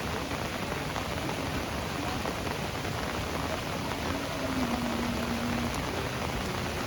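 Heavy rain falling steadily, an even hiss of drops on the ground and surfaces.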